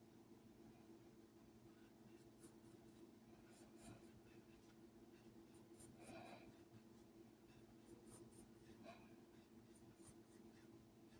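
Faint scratching of a pen or marker making short writing or drawing strokes on and off, over a steady low hum.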